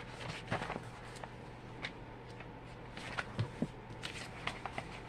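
Faint, irregular rustles and soft clicks of Bible pages being leafed through to find a passage, over a steady low hum.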